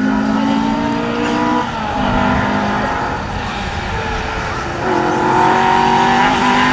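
Rally car engine running hard under load, its pitch stepping down about a second and a half in and stepping back up about five seconds in.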